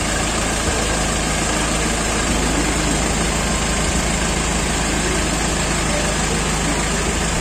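A vehicle engine idling steadily, an even low rumble with no revving.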